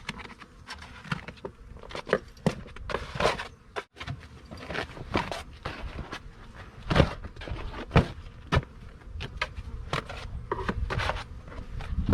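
Honeybees buzzing as they fly in and out around an active hive, with individual bees passing close to the microphone. Short knocks and rustles come and go among the buzzing.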